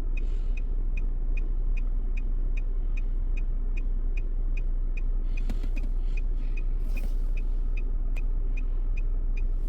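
Car's turn-signal indicator ticking evenly, about two and a half clicks a second, over the steady rumble of the car running inside the cabin. Two short hissy noises come about halfway through.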